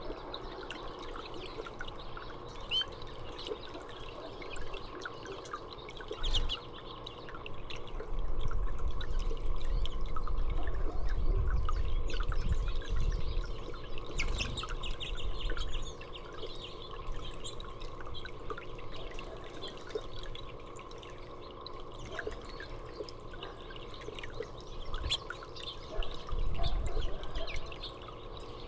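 Water trickling and splashing steadily, with small birds chirping in short high calls throughout. A louder low rumble comes in from about eight seconds in for several seconds, and briefly again near the end.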